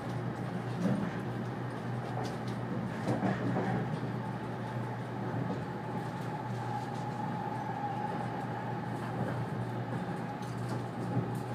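Running noise of a 485-series electric train heard from inside a passenger car: a steady rumble, with a thin steady whine coming in about halfway through.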